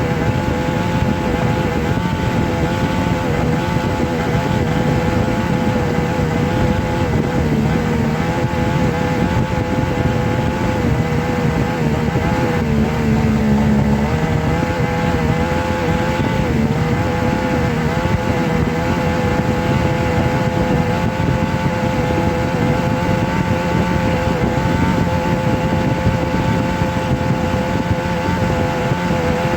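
A steady, continuous motor-like drone with a humming tone whose pitch wavers slightly, over a dense rumble.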